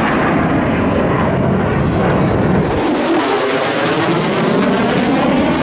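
Military jet aircraft's engine noise, a loud continuous rush whose deep rumble drops away about halfway through as sweeping tones come in, like a jet passing.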